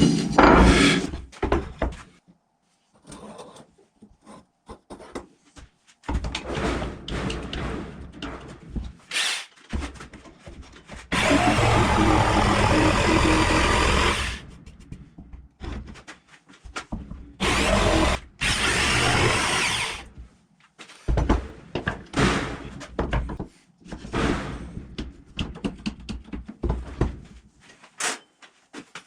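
Power tool cutting plywood to make a pulley, running in short spells of one to three seconds, with knocks and handling of the workpiece between.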